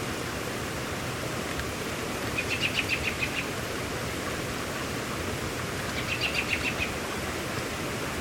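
Steady hiss of falling rain, with a bird singing a short, rapid trill twice, about two seconds in and again about six seconds in.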